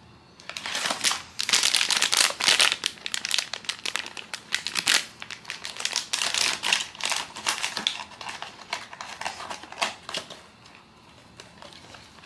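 Blind box packaging wrapper being handled and crumpled, a dense crinkling that starts about half a second in and dies away about two seconds before the end.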